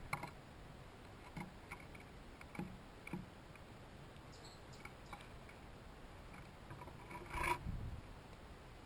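Scattered small taps and scrapes from birds and chipmunks working at a hanging feeder, with a faint short bird chirp about four seconds in. A louder bump with a brief rustle comes about a second before the end.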